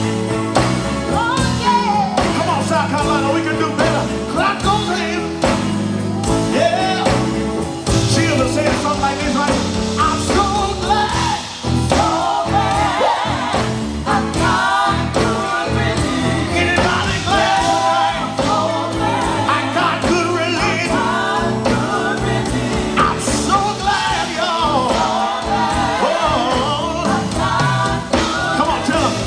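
Gospel quartet singing live over a band of guitar, bass and keyboard, with a steady beat.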